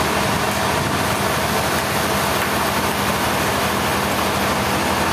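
Sawmill machinery running steadily: an engine-driven drone with a constant hum and a fast low pulsing.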